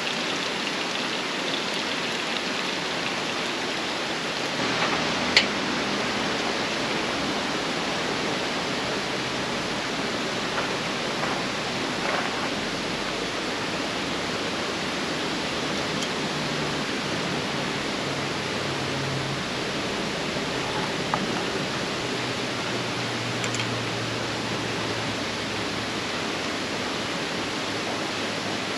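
Steady, even rushing hiss, with a few faint clicks and one sharper click about five seconds in.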